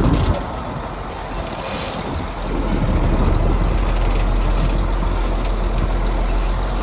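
Heavy construction machinery's diesel engine running steadily with a low rumble. It drops quieter just after the start and builds back up about two and a half seconds in.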